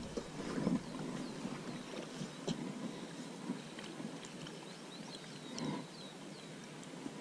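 A bird calling with a quick run of short, high, falling chirps starting about four and a half seconds in, over faint knocks and rustling.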